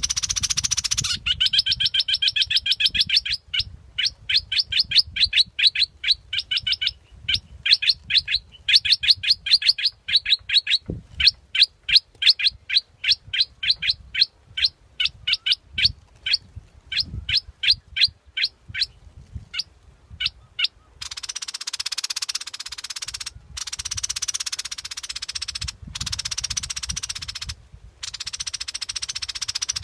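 Bulbul calling: a long series of quick, sweeping whistled notes, about four or five a second, in runs with short pauses. About twenty seconds in, this gives way to a loud, harsh hissing noise with brief breaks.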